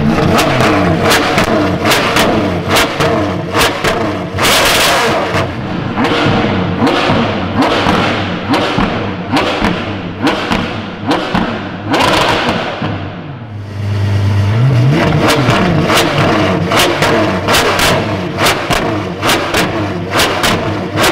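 Apollo IE hypercar's naturally aspirated V12 revved hard at standstill in a rapid string of blips, its pitch rising and falling with sharp cracks between revs. About two-thirds of the way through it drops back briefly, then climbs again.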